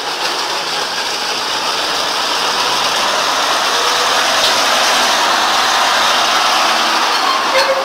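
A motor vehicle running: a steady rushing engine and road noise that grows slightly louder through the middle.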